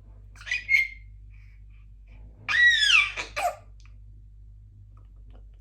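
Congo African grey parrot vocalising: a short chirp about half a second in, then a loud whistled call about two and a half seconds in that rises and falls in pitch, followed at once by a brief squawk.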